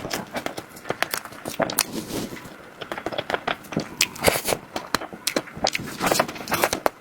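Close-miked eating sounds of dessert: a dense, irregular run of sharp wet clicks and smacks from biting and chewing.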